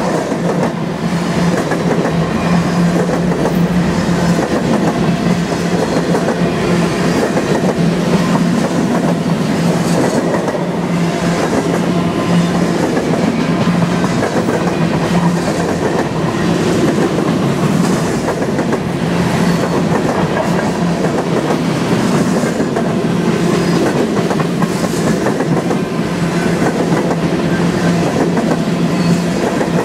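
Covered hopper cars of a freight train rolling past close by: a steady loud rumble of steel wheels on rail with repeated clickety-clack of the wheels over the track.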